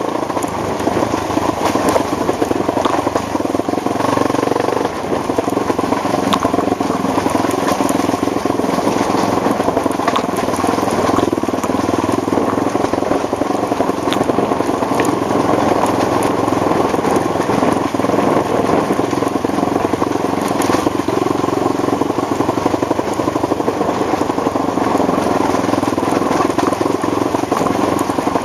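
ATV engine running steadily under way, with scattered clicks and knocks over it.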